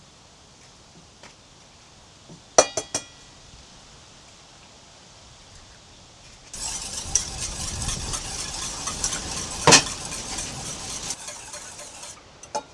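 Dishes and cutlery clinking: a quick cluster of ringing clinks a couple of seconds in and another near the end. In between is about five seconds of dense scraping and rustling noise, with one louder knock partway through.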